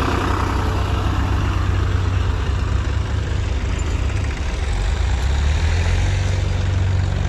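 Tractor diesel engine running steadily with a deep, low drone; about four and a half seconds in, its note shifts and the low end grows stronger, as if the engine takes on more load or revs.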